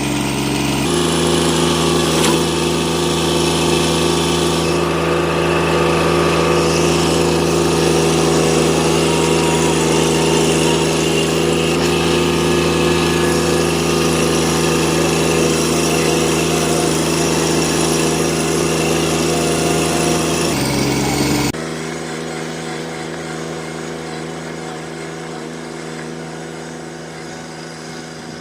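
An engine running steadily. About 21 seconds in it drops to quieter, slightly lower running and carries on.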